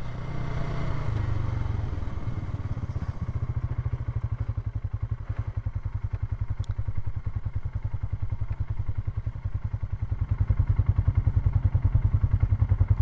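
Polaris ATV engine running at low revs with a steady low pulse, growing a little louder about ten seconds in.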